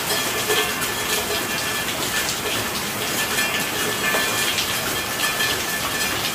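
Steady rain falling, a continuous hiss broken by many small, irregular drop ticks and splashes.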